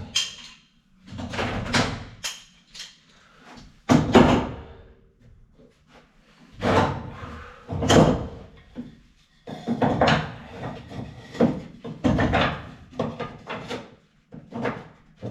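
Wooden pieces being handled and test-fitted into place: irregular knocks, thuds and scraping of wood on wood, a few of them sharp.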